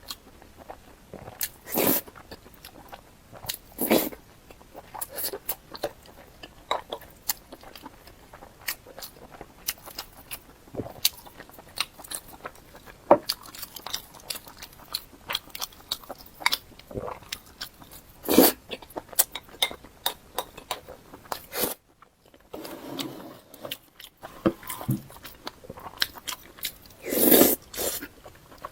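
Close-miked eating: chewing and biting, with crisp crunches and wet mouth clicks, and a few louder bites.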